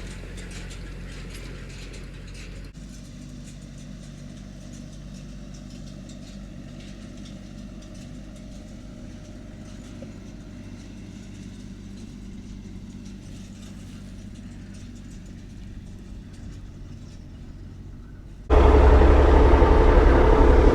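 Tractor engine running steadily while pulling a hay rake, moderate and even. About eighteen and a half seconds in it becomes suddenly much louder and closer.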